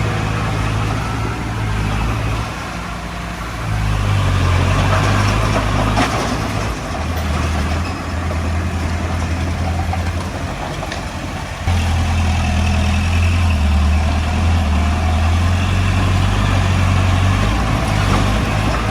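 Heavy diesel engine of earthmoving machinery running under changing load: it eases off twice and picks up again, with a rough noisy layer over the engine and one sharp click near the middle.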